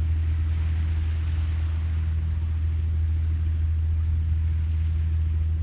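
Gentle ocean surf washing softly on a sandy beach at low tide, heard under a steady low hum. A brief high chirp comes about three and a half seconds in.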